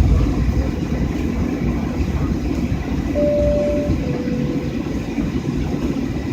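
Steady low rumble of a jet airliner's cabin with the engines running as it taxis. About three seconds in comes a two-tone high-then-low cabin chime, the signal before a crew announcement.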